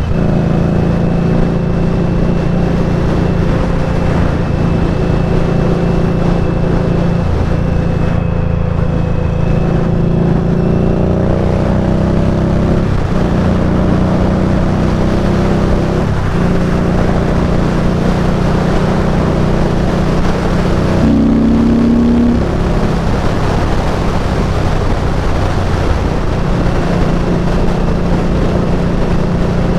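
Indian Scout Bobber's liquid-cooled V-twin engine running steadily under way, its pitch drifting and shifting slightly as speed changes. A brief steady tone joins for about a second around two-thirds of the way through.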